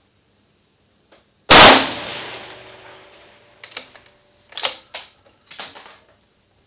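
One loud rifle shot about a second and a half in, its report dying away over about a second and a half, followed by four or five short metallic clacks.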